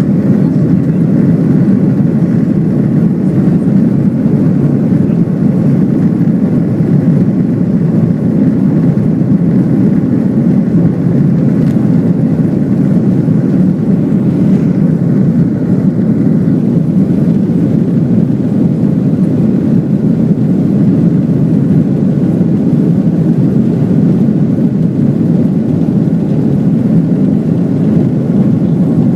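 Airliner taking off: a loud, steady roar of jet engines and rumble, with faint steady engine tones above it.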